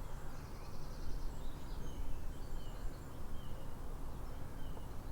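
Outdoor ambience: short, faint bird chirps repeating about once a second over a low steady rumble, with a brief high trill in the first second or so.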